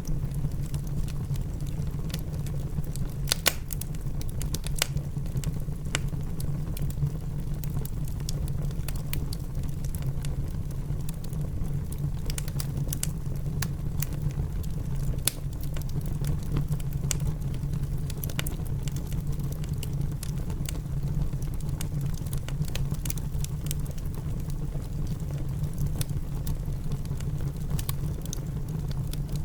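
Fireplace wood fire crackling, with scattered sharp pops, one louder pop about three and a half seconds in. The crackling sits over a steady, low rumbling bed of rain.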